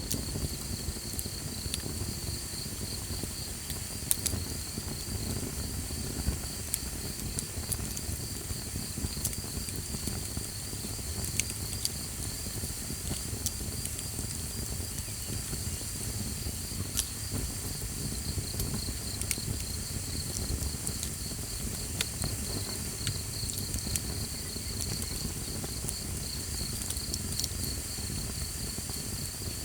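Campfire burning, with scattered sharp crackles and pops over a low steady rumble of the flames. Behind it, a continuous high-pitched insect trill pulses steadily.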